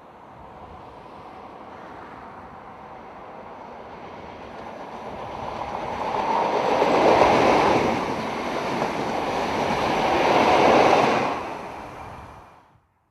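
Class 47 diesel locomotive and its train approaching and passing, growing steadily louder to a peak about seven seconds in and another near eleven seconds, then fading and cutting off suddenly.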